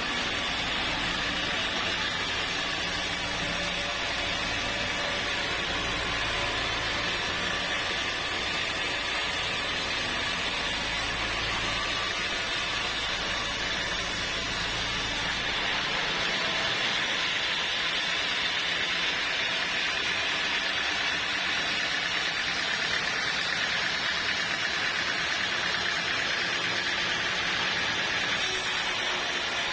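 Sawmill machinery running steadily, a continuous mechanical noise with a faint steady whine. Its character changes abruptly about half way through and again near the end.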